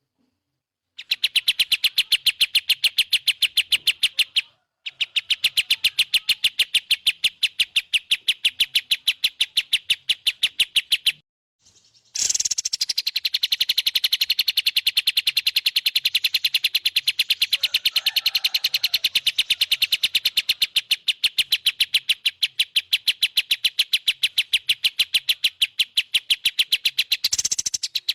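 A songbird's rapid trill of evenly repeated high chirps, about ten a second, in long runs broken by brief pauses about 5 and 11 seconds in. This is birdsong played as a tutor recording for training white-rumped shamas.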